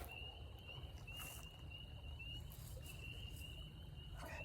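Spring peepers calling at night: a faint chorus of short, high-pitched, slightly rising peeps, about two or three a second.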